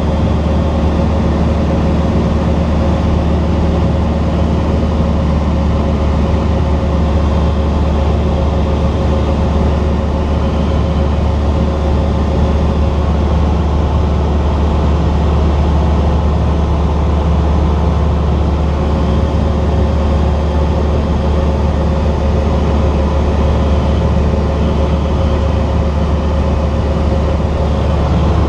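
Cessna 172's piston engine and propeller running steadily at constant power, a loud, even, low drone.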